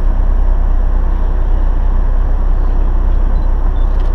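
Tour bus driving slowly, a steady engine drone and road noise heard from inside the cabin.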